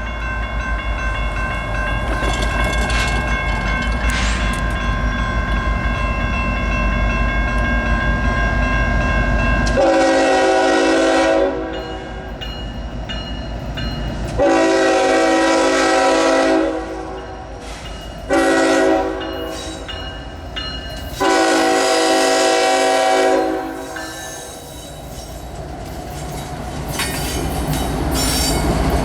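Freight train running with a steady low rumble, then its locomotive horn sounds the grade-crossing signal: two long blasts, a short one and a final long one. The rumble of the train carries on under and after the horn.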